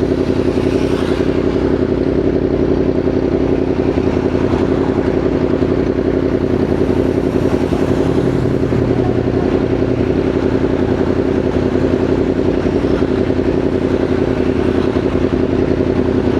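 Motorcycle engine running at a steady pitch, with road and wind noise.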